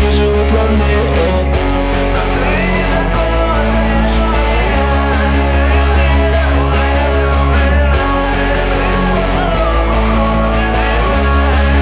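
Rock music from a full band, with loud, dense guitar and bass; the bass notes change about every one and a half seconds.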